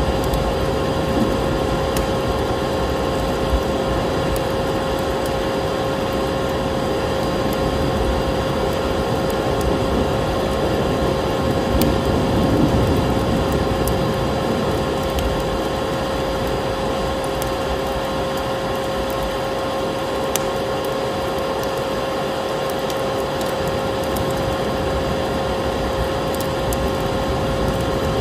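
Steady hum of a vacuum cleaner motor with a constant whine, layered over a crackling wood fire with scattered sharp pops and the even rush of snowstorm wind.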